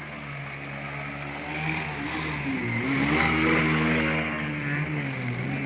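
Motorcycle engine revving, its pitch dipping and then climbing about halfway through, loudest in the middle and easing off near the end, over the rush of floodwater.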